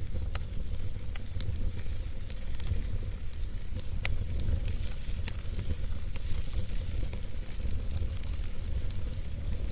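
Wood fire burning in a fireplace: a steady low rumble of the flames with a soft hiss and scattered sharp crackles and pops from the burning logs.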